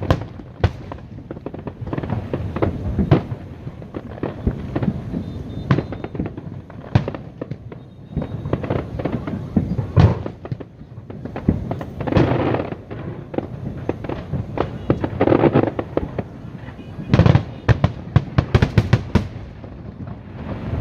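Fireworks display: aerial shells bursting in repeated bangs, with crackling bursts about twelve and fifteen seconds in and a rapid volley of bangs near the end.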